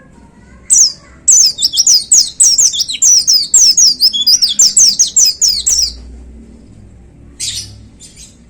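White-eye (pleci) singing: one high note, then a fast run of high, falling notes for about five seconds, followed by two short calls near the end.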